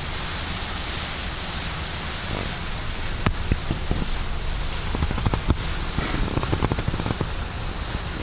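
Passenger ship under way, heard from the open deck: a steady rushing of wind and water over a low drone, with scattered light clicks and knocks.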